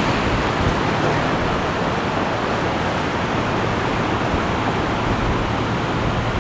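Steady, even rush of ocean surf, with no single wave break standing out.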